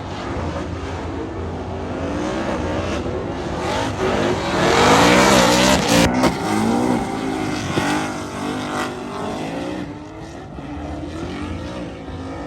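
Drift car engine revving hard as the car drifts past, its pitch swooping up and down repeatedly. It swells to its loudest in the middle and fades toward the end.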